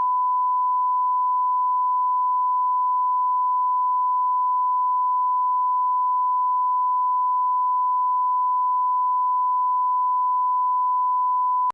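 A steady 1 kHz sine-wave line-up tone at −18 dBFS, the broadcast audio test reference tone, held at constant level and pitch and cutting off abruptly at the end.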